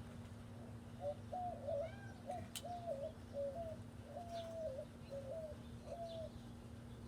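A dove cooing: a quick run of about eight or nine low, two-pitched coos from about a second in until near the end, with a few faint higher chirps from small birds over a steady low hum.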